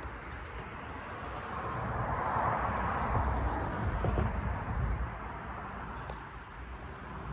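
A vehicle passing by: a rushing noise that swells to its loudest about three seconds in and then fades, over a steady low rumble.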